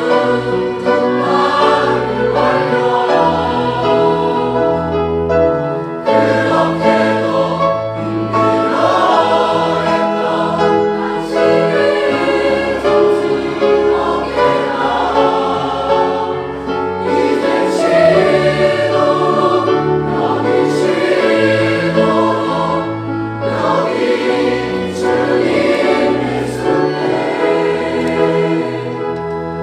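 Choir singing a sacred choral anthem, with full sustained chords over a moving bass line.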